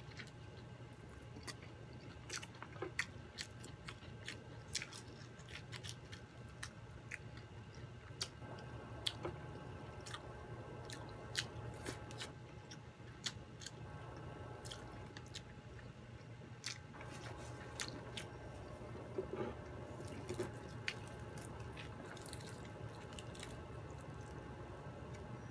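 Close-miked chewing of food eaten by hand, with wet mouth sounds and many sharp crunchy clicks. Near the end comes a denser crackle as the crispy skin of a whole fried chicken is torn apart by hand.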